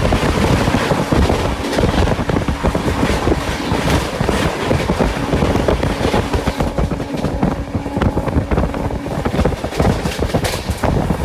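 Express passenger train running at speed, with a continuous rumble and clatter of wheels on the track mixed with wind noise. A steady hum joins for a few seconds in the middle.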